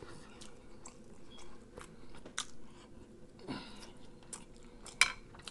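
Close-up mouth sounds of a man chewing a mouthful of food, with scattered wet clicks and smacks; the sharpest smack comes about five seconds in.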